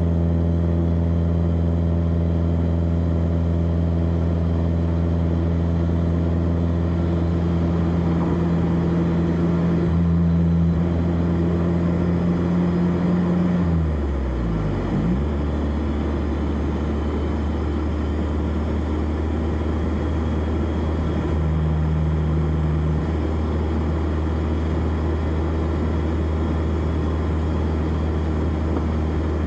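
1991 BMW E30 316i's four-cylinder engine heard from the exhaust, running at steady revs while driving, with road noise. About halfway through the pitch dips sharply, then the engine settles back into a steady run.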